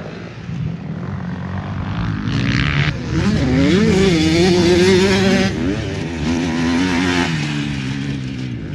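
Motocross bike engines revving hard and changing pitch as the bikes pass close by. They are loudest in the middle, then fade.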